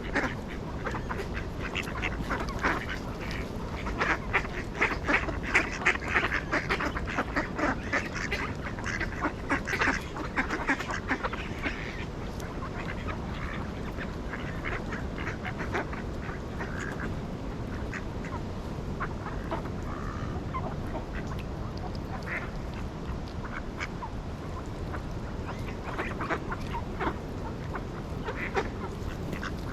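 A group of ducks quacking, with many overlapping calls through the first dozen seconds and scattered calls after that, over a steady low background noise.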